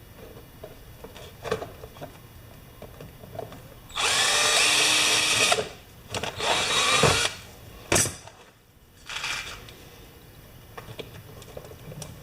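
Electric drill running in two bursts, about a second and a half and then about a second long, boring rivet holes through a repair plate on a compressor's broken oil sump cover. A single sharp click follows, with quiet handling sounds around it.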